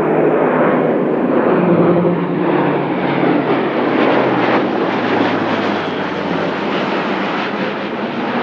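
Airbus A400M's four turboprop engines at takeoff power, a loud, steady roar with a crackling edge as the aircraft passes. Its low propeller tone drops in pitch from about two seconds in as it goes by.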